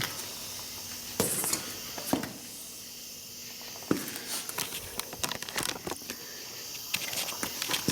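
Scattered light knocks and clicks with brief hissy rustles, like handling noise from moving about and handling gear.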